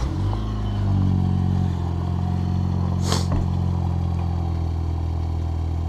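A car engine catching and running at a fast idle, then dropping to a steady lower idle about two seconds in. A brief hiss or scrape about three seconds in.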